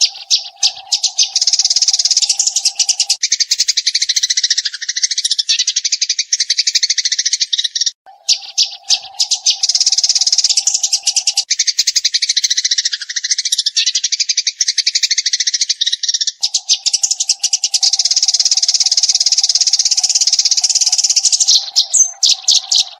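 Eurasian tree sparrows chattering in dense, rapid strings of high chirps, in three long runs broken briefly about 8 and 16 seconds in. A steady lower tone comes and goes beneath the chirping.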